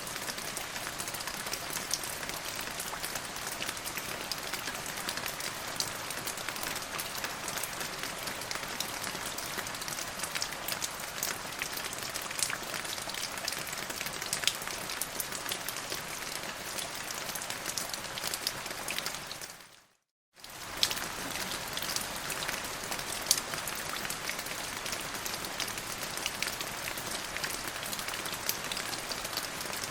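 Steady rain falling on a surface, a dense hiss with many distinct drop ticks. About twenty seconds in it fades out to silence for half a second, then fades back in.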